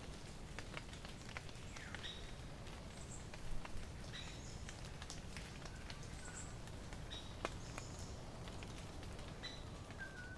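Wild forest birds calling: short high notes repeating every second or so, one downward-sliding call about two seconds in, over a steady low rumble with scattered sharp clicks.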